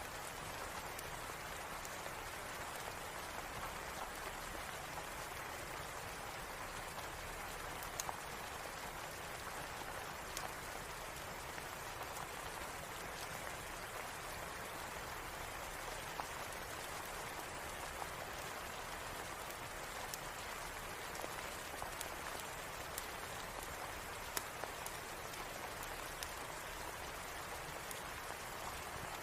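Steady rain with scattered sharp crackles from a wood fire in a fireplace.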